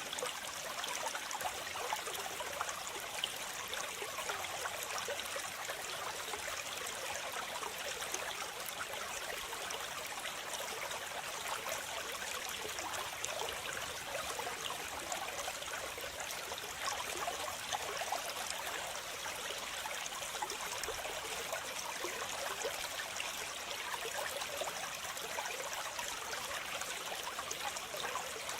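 Waterfall: a steady rush and splash of falling water, mostly a high hiss with little deep rumble.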